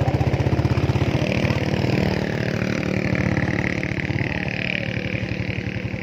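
Motorcycle engine running at a steady speed while riding, with an even low pulsing from the exhaust.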